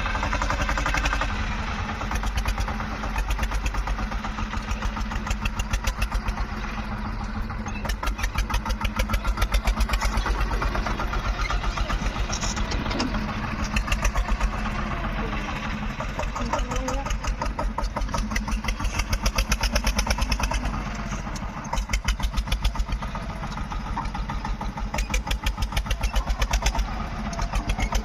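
Tractor diesel engine running under a working loader, its firing pulses steady throughout, the level rising and easing at uneven intervals as the load comes and goes.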